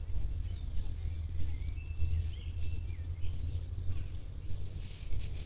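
Small birds chirping, a few short notes sliding up and down in pitch, over a steady low rumble.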